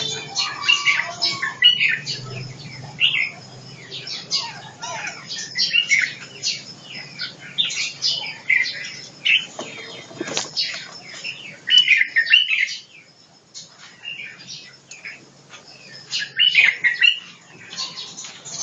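Caged white-rumped shamas chirping and calling in short, scattered notes, with wing flutters and sharp clicks or knocks against the cage.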